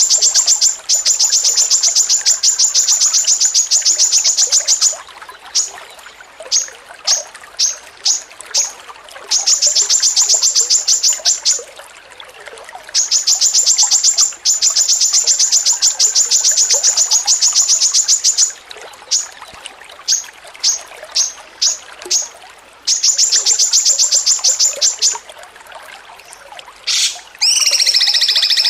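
A songbird's rapid chattering song: runs of high, sharp notes repeated about eight a second for several seconds at a time, with scattered single notes between the runs. A different, fuller call comes in near the end.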